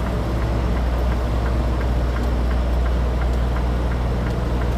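Semi truck's diesel engine running at low idle while the tractor-trailer backs slowly, a steady low hum with faint, evenly spaced light ticks.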